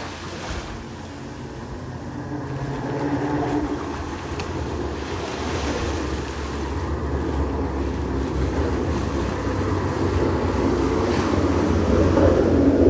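Ocean surf washing on the beach, with wind rumbling on the microphone and slowly building.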